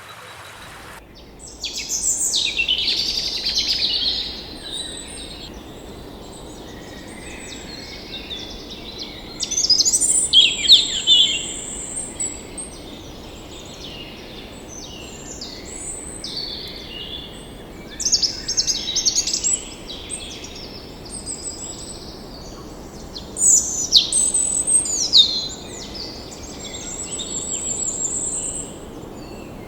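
Songbirds singing in short, fast, high warbling phrases every few seconds, over a steady background hiss of outdoor ambience.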